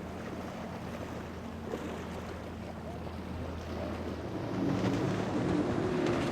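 Boat engine running with a steady low hum over wind and waves; about four seconds in the hum gives way to a louder rush of water and engine noise.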